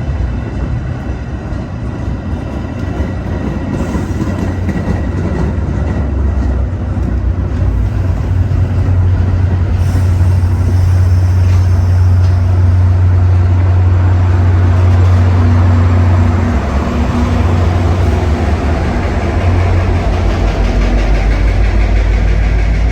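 Metra MP36PH-3S diesel-electric locomotive's EMD engine working under load as the train pulls out, a steady deep drone that grows louder over the first half and then holds.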